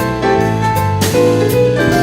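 Instrumental music led by piano, playing chords that change about every half second over a low bass line, with a sharp hit about a second in.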